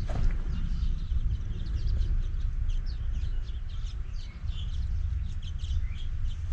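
Small birds chirping in many quick, short calls over a steady low rumble.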